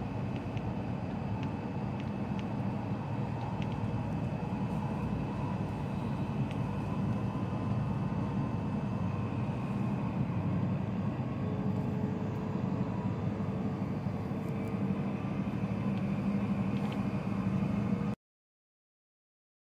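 Steady running noise inside a Joetsu Shinkansen car at speed: a low rumble with a faint whine over it. It cuts off suddenly near the end.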